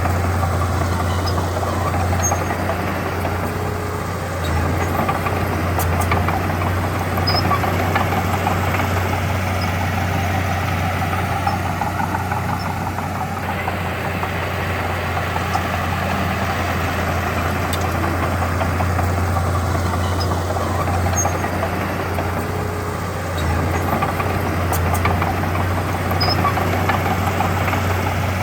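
Diesel engine of heavy earthmoving machinery running steadily, with its low drone swelling a little twice as the load changes.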